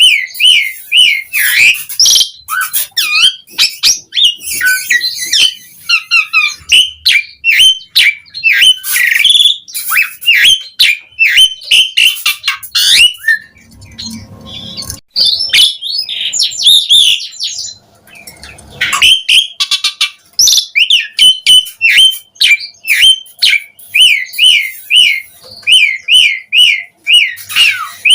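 Asian pied starling singing loudly: fast runs of short repeated whistled notes mixed with harsher chattering and squawky phrases, with a brief rougher passage about halfway through.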